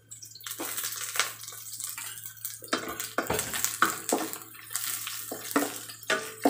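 Dried anchovies sizzling as they hit hot oil with frying garlic and onion in a stainless steel wok. A wooden spatula scrapes and knocks against the pan as they are stirred.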